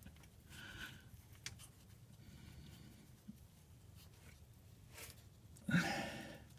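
Faint clicks and scrapes of a wrench working on a Chevy Tahoe's front differential plug, with a short grunt of effort near the end.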